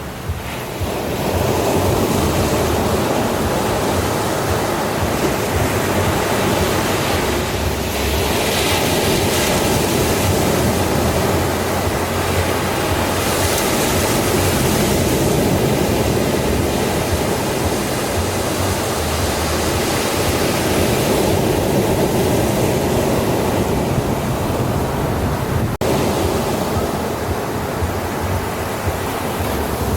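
Ocean surf: waves washing continuously onto a beach, with the hiss swelling twice as waves break, about a third of the way in and again near the middle.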